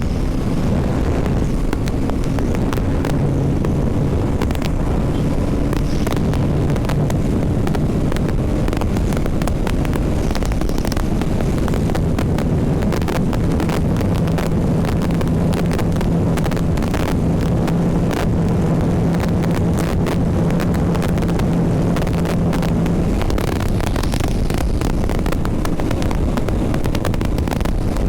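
BMW G 310 RR's single-cylinder engine running under way, with heavy wind rumble on the helmet-mounted microphone. The engine note shifts over the first few seconds, then holds one steady pitch for about ten seconds before sinking back under the wind noise.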